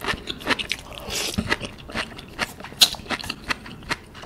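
Close-miked biting and chewing of raw sea grapes (latok): a quick run of small sharp clicks and pops as the beads burst in the mouth.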